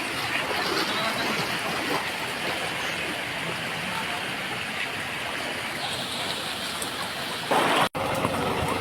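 Fast-flowing floodwater rushing steadily in a strong current. Near the end it briefly gets louder, then cuts out for an instant.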